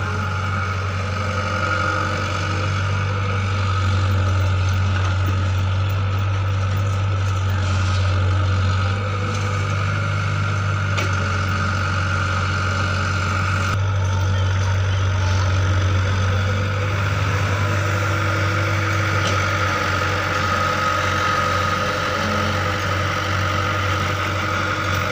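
Heavy machine engine running steadily, a continuous low drone.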